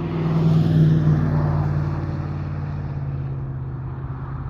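Car engine and road noise heard from inside the cabin while driving at a steady pace, swelling about a second in and then easing off.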